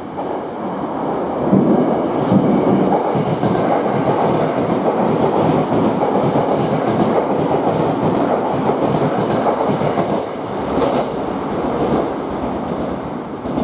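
Electric commuter train running along the station platform, a steady loud rumble of wheels on rails with clattering over the rail joints. It starts abruptly and builds over the first couple of seconds.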